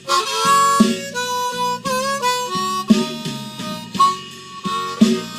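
Blues harmonica playing a fill of held and bent notes over a backing track of drums and bass, the drum beats falling about once a second.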